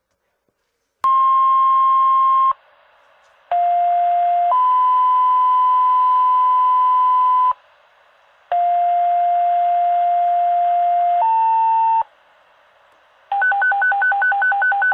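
Fire dispatch alerting tones heard through a scanner radio: a series of steady single tones of one to three seconds each, stepping between different pitches in two-tone pairs that page the stations. Near the end comes a rapid pulsing alert tone that alternates two pitches at about six beats a second.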